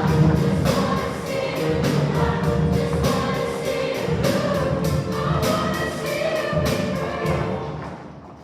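Choir singing with instrumental accompaniment and a steady beat, dying away near the end.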